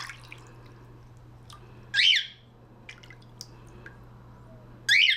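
Cockatiel squawking loudly twice, about three seconds apart, each call short and rising then falling in pitch. These are protest calls from a bird that does not like being bathed, with a sharp click right at the start.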